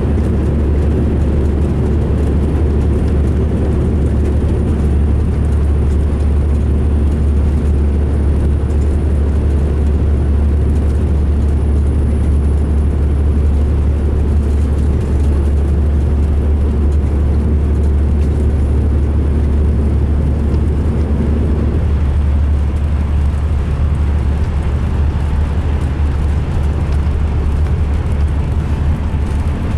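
Diesel engine of a 2005 MCI D4500 coach running with a steady, loud low drone that the uploader calls rough. The note eases about two-thirds of the way through.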